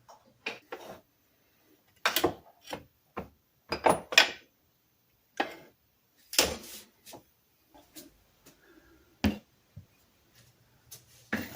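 Irregular sharp knocks and clacks, about a dozen, from hard objects being handled and set down on a work surface, with short quiet gaps between them.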